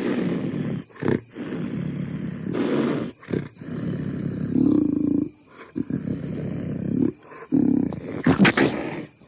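Repeated animal growls and snarls from cheetahs struggling with an ostrich, coming in uneven outbursts. Near the end there is a cluster of sharp knocks from the scuffle.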